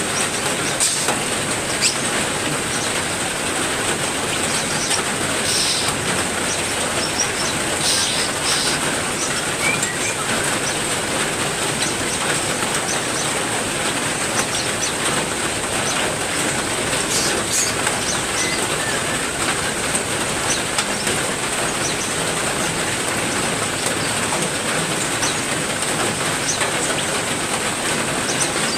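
Heavy rain falling steadily in a small backyard aviary, with a constant high hiss and a few brief, high bird chirps scattered through it.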